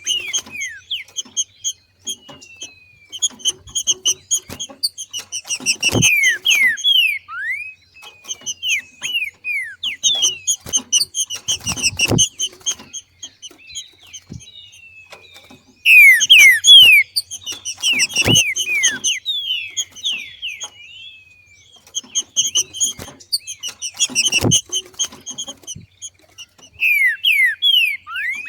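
Green-winged saltator (trinca-ferro) giving its 'macheado', bursts of rapid chattering notes mixed with quick downward-sweeping whistles, in phrases a couple of seconds apart. A dull thump sounds under some of the bursts, about every six seconds.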